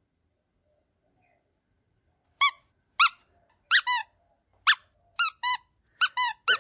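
After about two seconds of dead silence, a series of short, high, upward-sliding squeaks, about ten in all, at first one at a time and then in quick pairs and triples.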